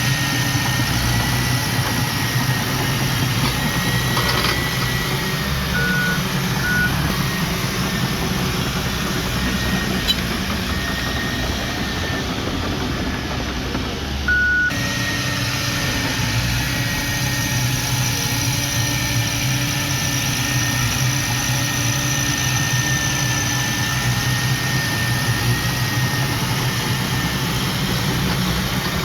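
Heavy earth-moving machinery's diesel engine running steadily under work, with a thin high whine over it. Short beeps come about six and seven seconds in and again near the middle.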